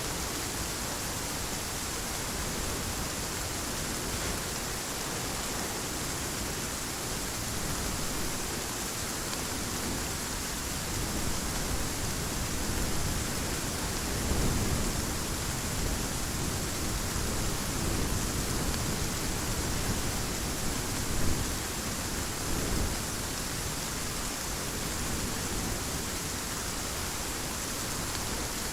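Heavy rain falling steadily, with thunder rolling in low rumbles through the middle, loudest about halfway through and again about two-thirds of the way in.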